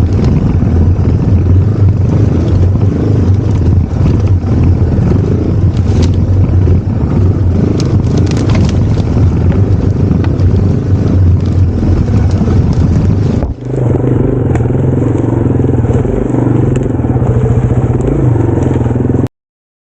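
Yamaha TW200's single-cylinder engine running as the bike rides through the woods, with crunching and scraping of brush under the wheels. The sound changes abruptly about two-thirds of the way through and stops dead shortly before the end.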